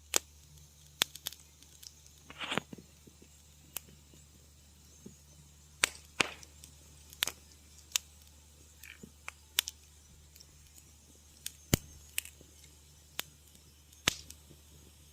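Wood fire crackling: irregular sharp pops and snaps, roughly one a second, with a brief hiss about two and a half seconds in.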